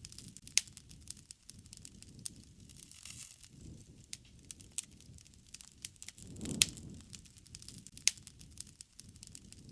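Wood fire crackling, with sharp irregular pops over a low rush of flame that swells about six and a half seconds in.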